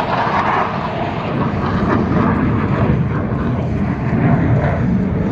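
Loud, steady jet-engine noise from F-16 fighter jets passing low overhead, strongest at the start and easing a little after about a second.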